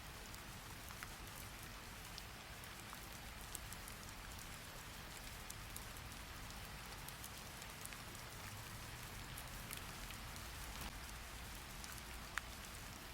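Steady rainfall, an even hiss with scattered sharp drip-like ticks. One louder tick comes near the end.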